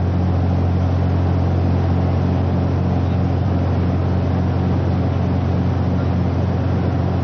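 Cabin drone of a four-engined propeller aircraft in flight: a steady low hum with a regular throb about twice a second.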